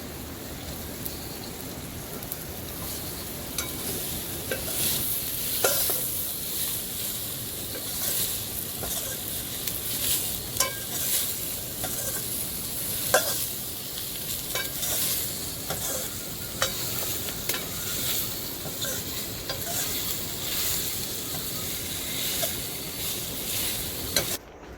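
Food sizzling in a hot pan while being stirred, with frequent scrapes and taps of the spoon against the pan; the sound cuts off abruptly near the end.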